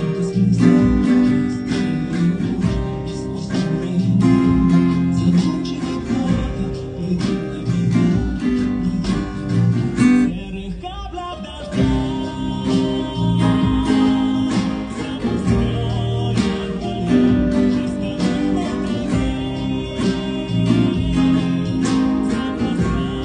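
Acoustic guitar strumming the chords of a song, with a softer moment just before twelve seconds in.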